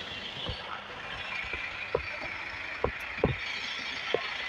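Steady traffic noise from passing trucks, with a series of dull footsteps about a second apart as someone walks.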